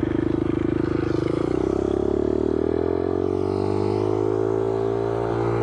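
2019 Kawasaki KLX110's small single-cylinder four-stroke engine idling with an even pulsing beat, then its pitch climbs steadily from about a second and a half in as the revs rise.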